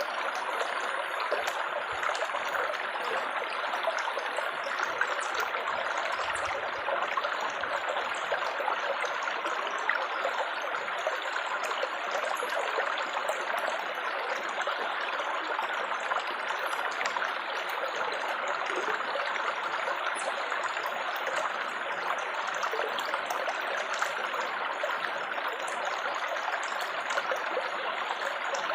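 Water trickling and babbling steadily, an even splashing rush that never pauses.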